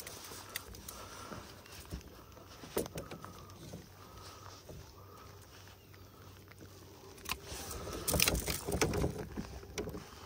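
Rain pattering steadily on the water and the kayak, with scattered clicks and knocks from pliers and a fish grip working a hook out of a speckled trout. A louder stretch of rubbing and knocking comes about eight seconds in.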